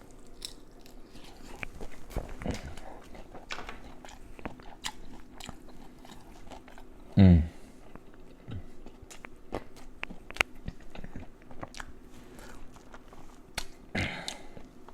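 Close-up eating sounds of a person biting and chewing sauce-dipped shrimp, with many sharp wet clicks and smacks. A short voiced hum, the loudest sound, comes about seven seconds in, and a fainter one near the end.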